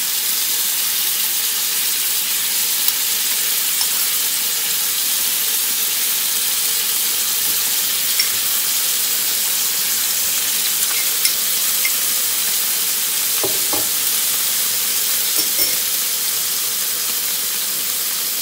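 Chicken kebab skewers sizzling steadily in hot cooking oil in a shallow pan, with a few light clicks about two-thirds of the way through.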